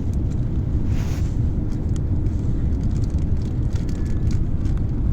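Low, steady rumble of an Airbus A350-900's Rolls-Royce Trent XWB jet engines on approach, mixed with wind buffeting the microphone.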